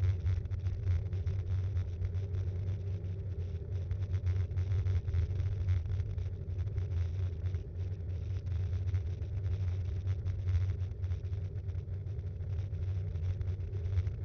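Ride noise of a Btwin Rockrider 5.1 mountain bike rolling along, picked up by an action camera mounted on the bike: a steady low rumble from the tyres and frame vibration, with many small rattles.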